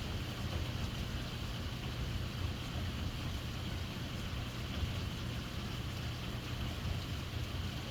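Heavy downpour of rain, a steady dense hiss with a strong low rumble underneath and no letup.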